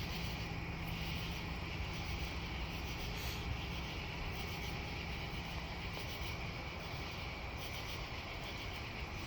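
Steady outdoor ambience: a continuous high insect trill, likely crickets, over a low steady rumble.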